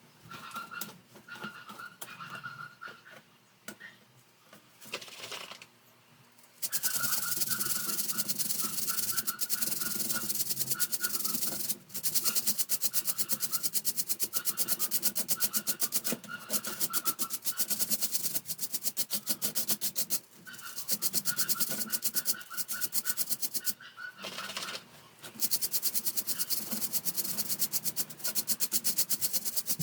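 Fast, rhythmic scrubbing on a fan's parts while it is cleaned. Quiet handling noises come first, then steady back-and-forth scrubbing from about seven seconds in, stopping briefly three times.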